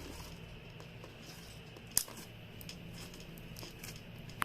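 Quiet handling noises of small objects over a low steady hum, with two sharp clicks, about two seconds in and near the end.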